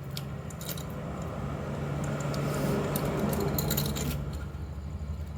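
Light metallic clinks and jingling of a scooter engine's timing chain being handled and fitted onto the crankshaft, over a steady low hum.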